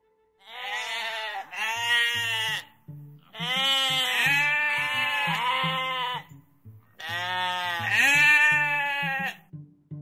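A goat bleating: a series of long, wavering bleats in several bouts, over light background music.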